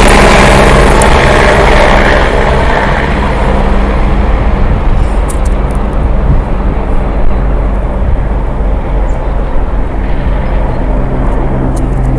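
AgustaWestland AW109E Power twin-turbine helicopter's rotor and turbines at takeoff power as it climbs away. A steady low rotor drone holds throughout, while the high turbine whine fades over the first two to three seconds.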